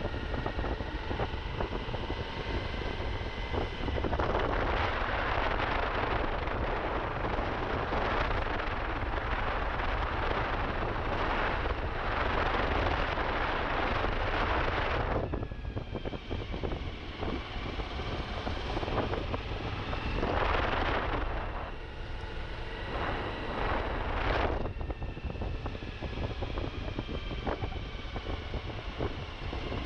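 Suzuki V-Strom motorcycle engine running while riding off road, its pitch rising and falling with the throttle. Wind noise on the microphone comes and goes, with a long rush from about four to fifteen seconds in and shorter ones later.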